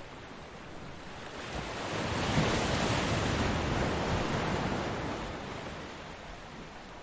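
A single ocean wave breaking on the shore: the rushing surf builds about a second and a half in, crests, then washes out and fades over the next few seconds.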